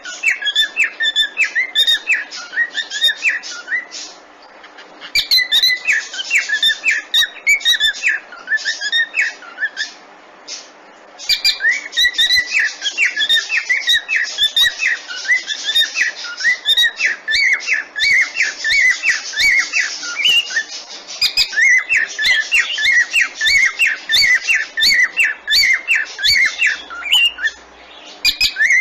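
Cockatiel chirping in a fast, continuous run of short, sharp notes, pausing briefly a few times.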